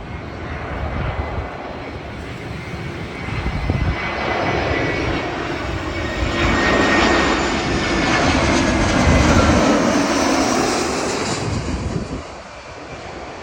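Jet airliner flying low overhead: engine noise swells over a few seconds, is loudest in the middle with a steady high whine, then fades away near the end.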